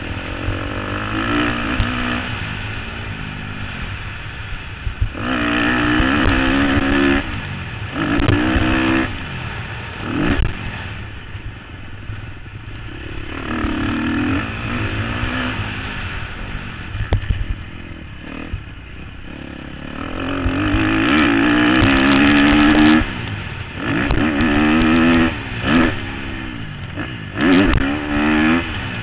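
2013 KTM 250 SX-F's single-cylinder four-stroke engine revving up and backing off again and again as the rider works the throttle and shifts, heard from a helmet camera. A steady low wind rumble runs underneath.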